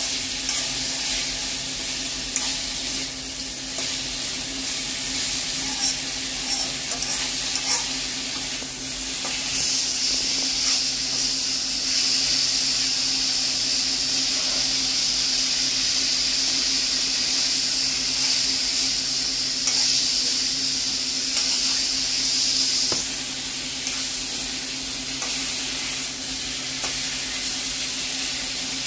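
Cauliflower florets sizzling in oil and spice paste in a kadai while a metal spatula stirs and scrapes them around the pan, sautéing them in the masala. The sizzle grows brighter and louder for a stretch in the middle, over a steady low hum.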